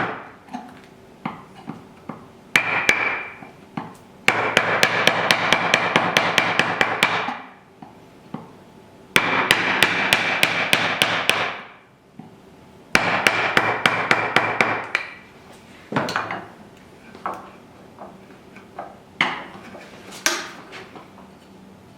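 Hand tools working wood: bursts of rapid, even tapping several times a second, each lasting a few seconds, with a faint ring in the upper range. In the last few seconds only scattered single knocks remain.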